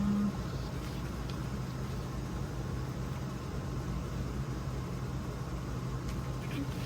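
Steady low mechanical hum with a constant low tone, running evenly throughout.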